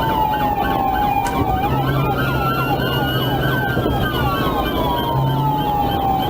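Police car sirens during a pursuit: one siren in a slow wail falling and then rising, overlapping another in a fast yelp, over steady road and engine noise.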